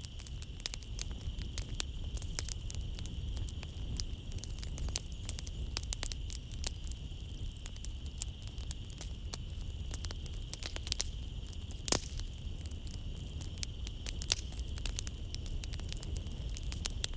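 Wood fire crackling in a fireplace with frequent sharp pops, one louder pop about twelve seconds in, over a low rumble of the flames. A steady high chirring of night insects runs underneath.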